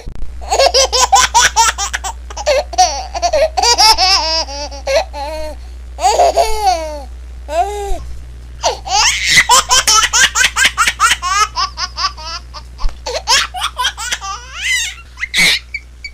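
A baby laughing: fits of rapid, high-pitched giggles, with a few drawn-out squealing laughs in the middle before another long run of giggling.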